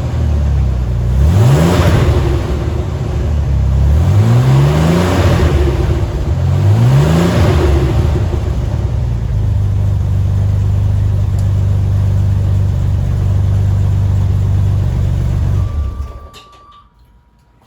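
1985 Chevy S10's carbureted 2.8-litre V6 exhausting through a Borla muffler with no tailpipe after it: three quick revs in the first eight seconds, each rising and falling back, then a steady idle. The engine stops about sixteen seconds in.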